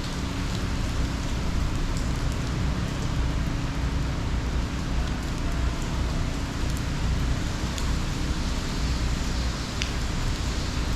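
Steady hurricane rain falling, with a few sharp ticks of drops striking close by and a steady low rumble underneath.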